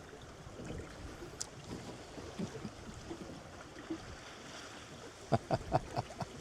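Water rushing past a small sailing dinghy's hull under sail, with wind on the microphone. Near the end comes a quick run of about six sharp knocks within a second.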